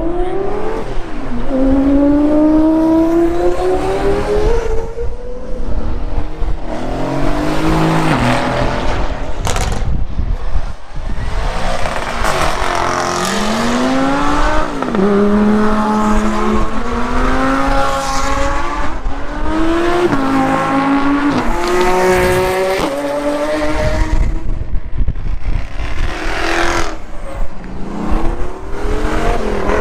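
Car engine accelerating hard through the gears. The pitch climbs with each pull and drops sharply at each shift, many times over.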